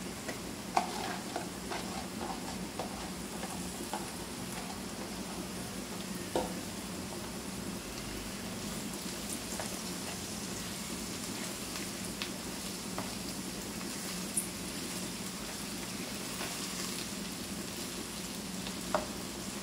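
Okra and freshly added chopped onions sizzling steadily in hot oil in a wok, with a spatula stirring and now and then clicking against the pan.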